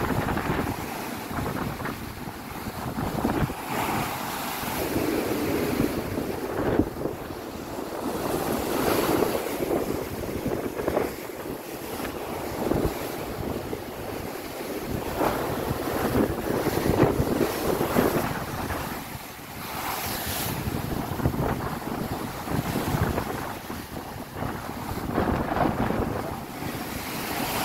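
Strong wind buffeting the microphone over the rush of sea waves, surging and easing in gusts every few seconds.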